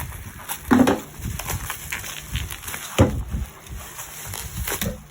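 Hands handling an album and its packaging: irregular rustling and crinkling with a few knocks, the loudest about a second in and again about three seconds in.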